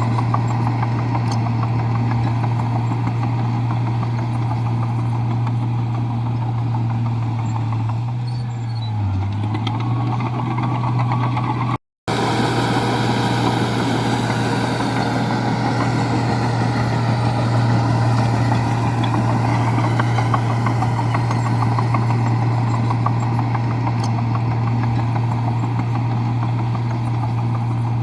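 Komatsu bulldozer's diesel engine running steadily, its pitch dipping briefly about nine seconds in and then recovering. The sound drops out for an instant near the middle.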